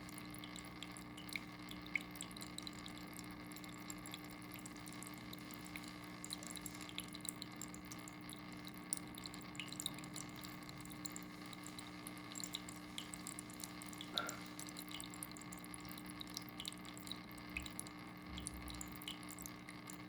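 Water dripping in small, irregular drops over a faint steady hum.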